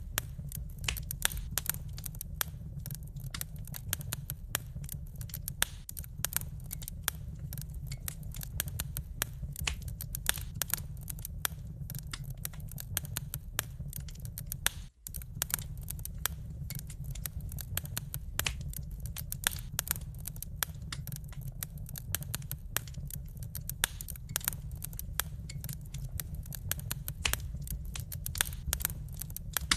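Wood fire crackling in a fireplace: dense, irregular sharp snaps and pops over a steady low rumble of the burning fire. The sound cuts out for a split second about halfway through.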